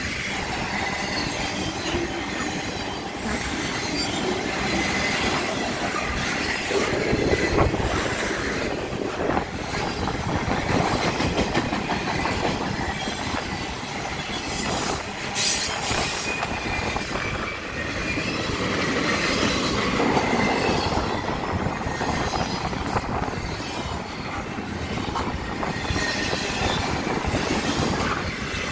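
Intermodal freight train passing close by: trailers and containers on flatcars roll steadily past, with wheels rumbling and clattering on the rails and a thin high wheel squeal over it, and a few louder clanks along the way.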